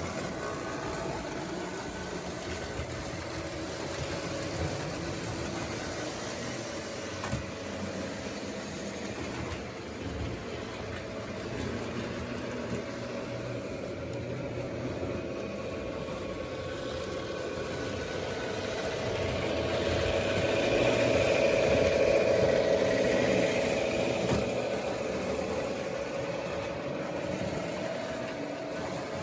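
Electric model trains running on a layout's track: motors hum and wheels rumble on the rails, growing louder about twenty seconds in as a train passes close and then fading.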